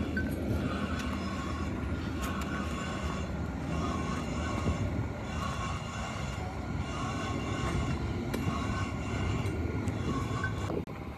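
Heavy factory machinery running: a steady low rumble with a high whine that comes and goes, the noise dropping off near the end.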